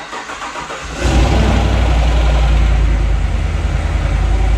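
Starter cranking a freshly installed remanufactured GM 6.2 V8 for its first start; it catches about a second in and settles into a loud, steady idle.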